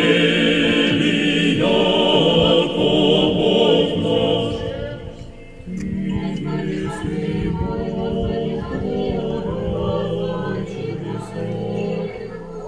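Unaccompanied Orthodox church choir singing, with voices holding long notes. The singing is louder and brighter for the first few seconds, dips about five seconds in, then goes on with lower voices.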